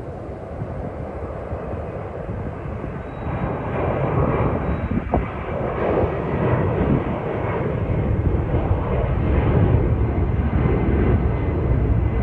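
Airliner's jet engines at takeoff power, a broad rushing rumble that grows louder from about three seconds in, with a faint high whine above it.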